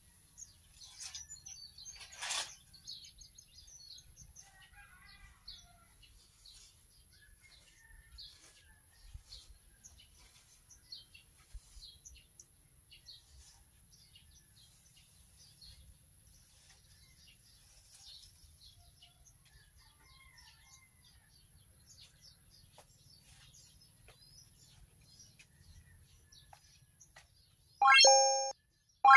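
Small birds chirping faintly, many short calls scattered throughout, over a faint steady high whine. About a second before the end, a loud electronic chime from a like-and-subscribe end-screen animation.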